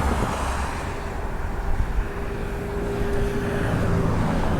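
Jet airliner engines running: a steady, loud rumble with a faint steady whine in the middle.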